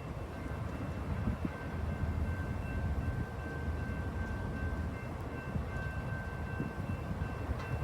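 Train rolling by with a steady low rumble, over faint steady high-pitched tones.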